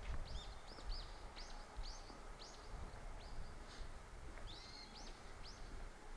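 Small birds calling in a long run of short, high chirps, each rising and falling, about two a second, over a low rumble.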